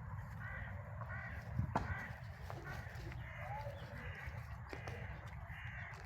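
A crow cawing repeatedly, a series of short calls coming about every half second to second.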